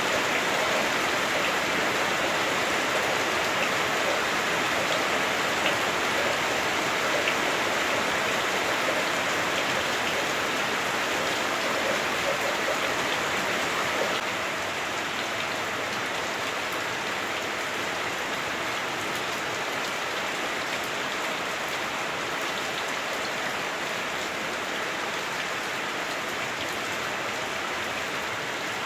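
Heavy rain falling on a house roof, heard from inside the house: a dense, steady patter that drops a little in level about halfway through.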